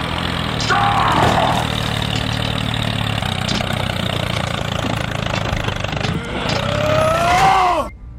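A small engine running steadily with a low pitched hum. A higher whine bends in pitch about a second in and again near the end, and the sound cuts off abruptly just before the end.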